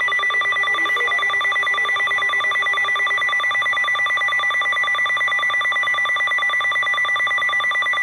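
Weather radio alert tone sounding for a severe thunderstorm warning: a loud, high, steady-pitched beep pulsing rapidly and evenly.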